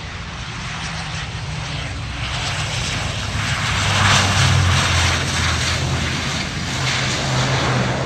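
Airliner flying overhead, its engine noise swelling to its loudest about halfway through and staying loud.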